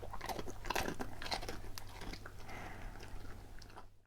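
A husky crunching and chewing a hard dog biscuit, with irregular crunches that fade toward the end.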